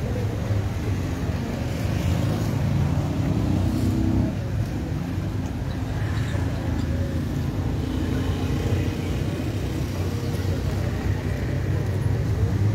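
Engine of an SUV hearse running steadily at a slow crawl, a continuous low hum.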